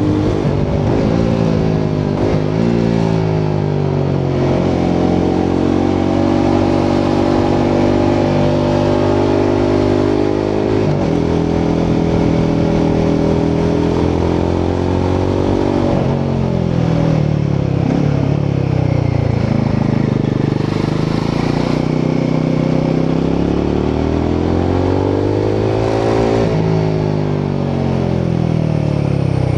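Royal Enfield Himalayan 450's 452cc single-cylinder Sherpa engine under way, its exhaust note heard from the rider's position. The revs hold steady for stretches, drop sharply a couple of times as the rider shifts or rolls off, and rise and fall repeatedly toward the end.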